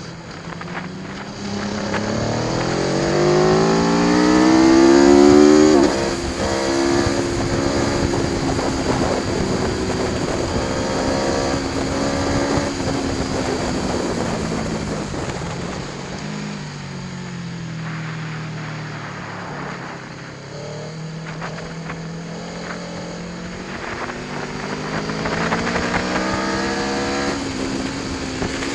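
Aprilia Tuono V4 1100 Factory's V4 engine under hard acceleration on track, its pitch climbing steeply for a few seconds and dropping sharply about six seconds in. It then runs on at high revs, easing off through the middle and climbing again near the end.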